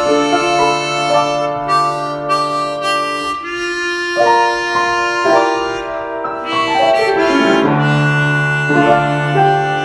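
Harmonica playing a slow melody, note following note, over long held low notes in the accompaniment.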